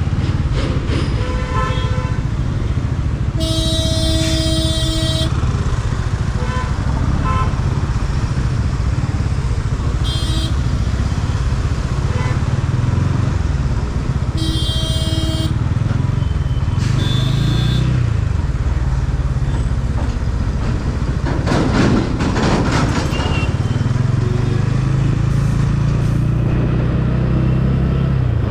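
Motorcycle engine running on the road under steady road and wind noise, with other vehicles' horns honking four times in traffic. A louder rushing noise swells briefly a little past two-thirds through.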